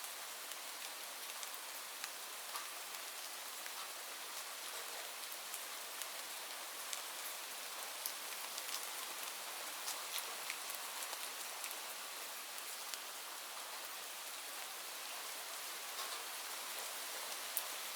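Steady rain falling on a surface, a continuous hiss with scattered individual drop ticks.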